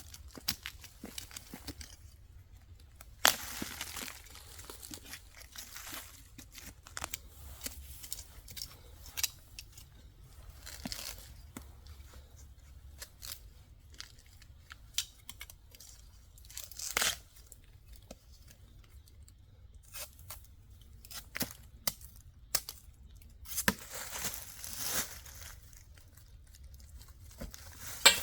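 Intermittent crinkling and tearing noises with many scattered small clicks and knocks, and a few louder rustling bursts.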